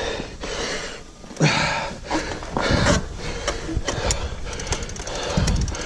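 Mountain bike rolling over a dirt trail: uneven rattling, clicking and rustling from the bike, with scattered knocks as it goes over bumps.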